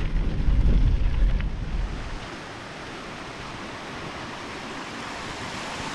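Wind rumbling on the microphone for about two seconds, then the steady rushing of a waterfall.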